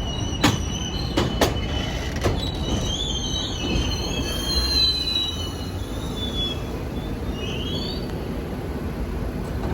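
New York City subway train running through the station, its wheels squealing in a wavering high pitch over a steady low rumble, with a few sharp clacks over the rail joints in the first couple of seconds. The squeal dies away near the end.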